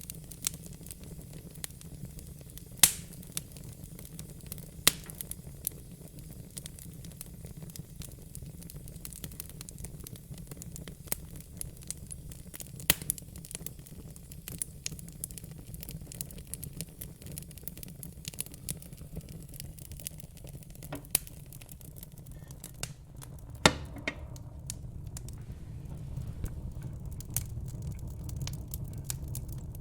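Crackling fire: irregular sharp pops and snaps, a few much louder than the rest, over a low steady rumble.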